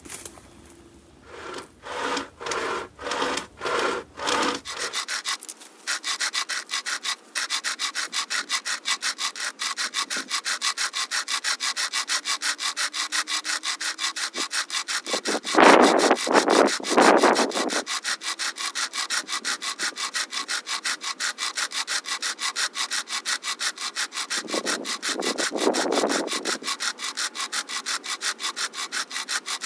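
SOG pocket chainsaw, a hand-pulled chain, rasping through a log as it is pulled back and forth. It starts with a few slow separate strokes, then settles into a fast, even sawing rhythm after about five seconds. Twice it gets louder and harsher for a couple of seconds.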